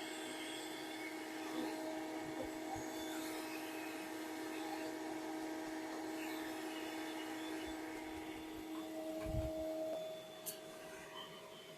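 Bee vacuum running with a steady motor hum, its hum dipping about ten seconds in.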